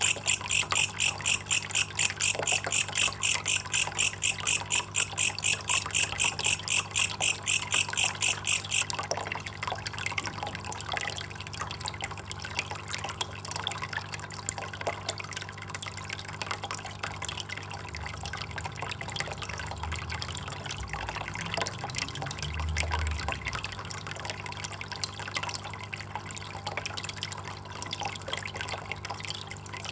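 A belalang kecek katydid calling in a steady rhythm of high chirps, about four a second, which stop about nine seconds in. Water trickles and drips under it throughout.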